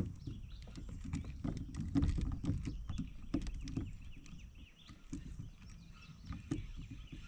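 Handling noise in a fishing kayak: irregular clicks and knocks over a low rumble as the angler works the rod and reel against a hooked fish.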